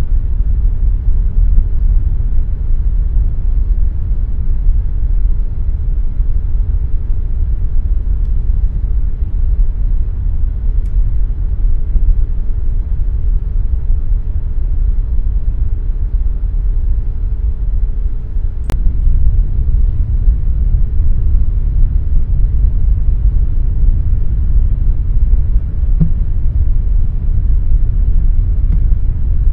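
Air conditioner running with a steady, low-pitched noise. A faint hum tone under it stops with a single click about two-thirds of the way through.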